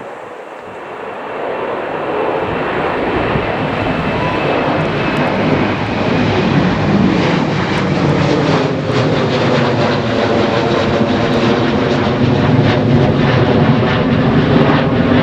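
Airliner engines growing louder over the first several seconds as the aircraft comes close, then holding loud and steady.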